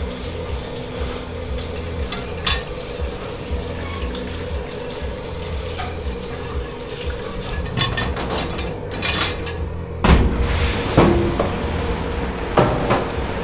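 Dish pit in a commercial kitchen: a steady hum and hiss of equipment and running water, with scattered clinks of dishes and cutlery. Several louder knocks of crockery or pans come near the end.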